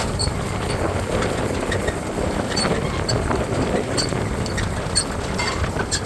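TAFE tractor running steadily, with a rattling, clicking clatter of machinery over its engine noise.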